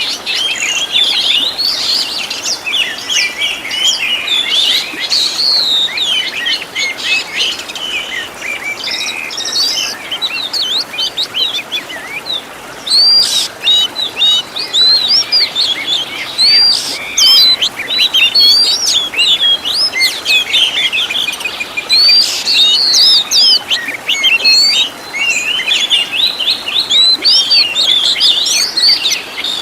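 Oriental magpie-robin (kacer) singing a continuous, varied song of quick whistled notes, slurs and trills, full of mimicked phrases of other birds, with a brief lull about twelve seconds in.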